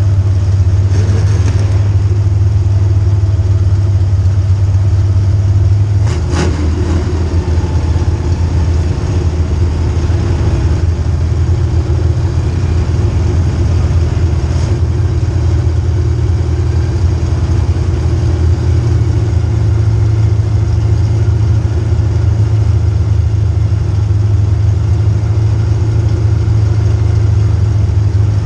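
A car engine running loud and steady, its note changing about six seconds in, where a single knock is heard.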